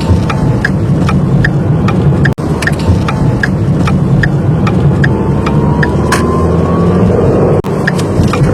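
Car engine and road noise heard from inside the cabin, with the turn-signal indicator clicking in a steady rhythm, a few clicks a second, as the car makes a right turn. The sound cuts out briefly twice, about two and a half seconds in and about a second before the end.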